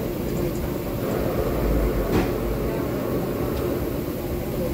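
Steady low rumble and hum of a running vehicle, with one short click about two seconds in.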